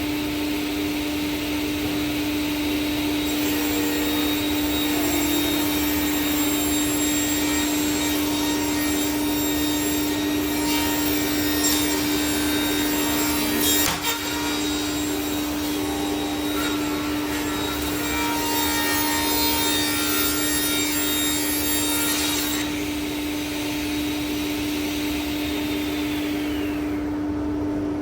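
Power saw cutting through wood: a steady motor hum under a rasping cut, with a sharp jolt about halfway through where the blade catches a knot. The cutting stops a few seconds before the end and a high whine falls away as the saw winds down.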